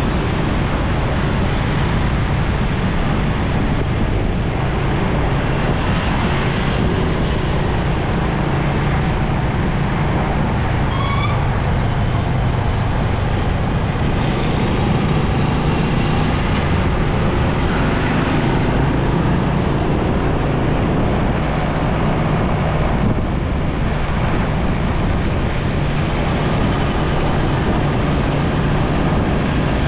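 Motorcycle riding through traffic: its engine runs steadily under constant road and traffic noise, with a short rising chirp about eleven seconds in.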